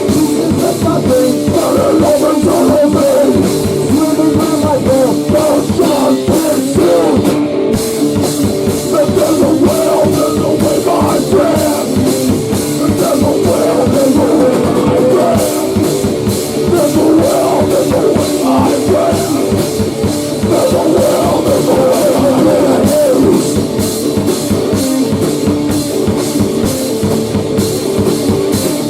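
Rock band playing loud grunge-style music: a drum kit keeping a steady beat under guitar.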